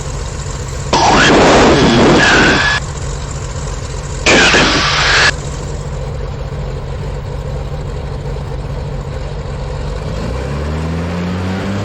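Cessna T310R's twin piston engines running steadily at low power, then throttled up from about ten seconds in, their pitch rising as power comes on for the takeoff run. Two loud bursts of broad noise, about one and four seconds in, cover the engine sound briefly.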